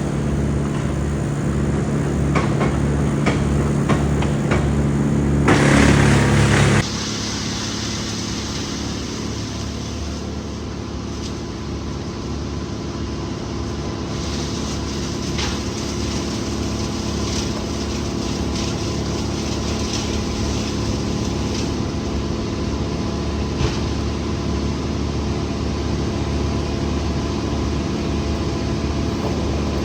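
Heavy tree-service machinery engines running steadily. A low throb comes about twice a second at first; about seven seconds in the sound changes abruptly to a steadier engine hum with occasional sharp cracks.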